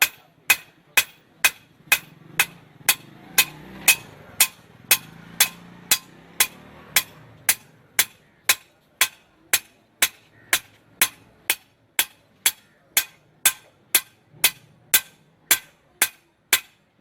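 Blacksmith's hammer striking metal on an anvil in a steady rhythm of about two ringing blows a second.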